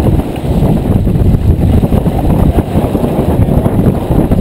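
Wind buffeting the microphone aboard a J24 sailboat under sail: a loud, continuous, gusting low rumble.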